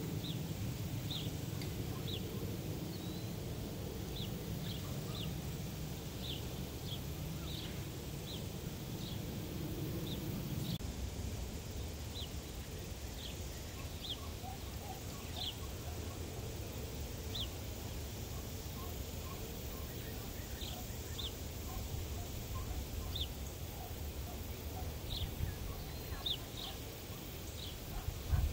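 Small birds calling: short, high chirps at irregular intervals, about one a second, with some fainter, lower notes joining in from about halfway, over a low steady rumble.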